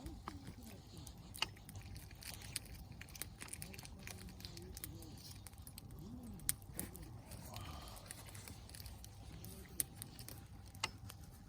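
Burning log fire crackling, with irregular sharp pops, a few of them loud. Faint voices murmur underneath.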